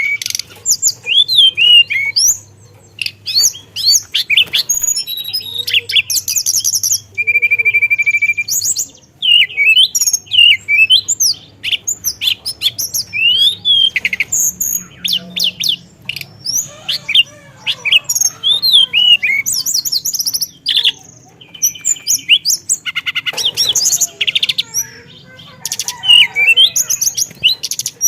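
A teledekan songbird singing continuously in a fast, rolling song of varied chirps, sweeping whistles and rapid trills, with short pauses between phrases. About a quarter of the way in it holds one whistled note steadily for over a second.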